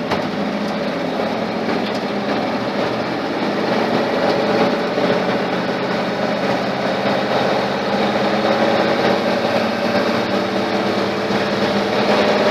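Ford flathead engine pulling a truck along at a slow cruise, a steady running note that grows a little louder about four seconds in.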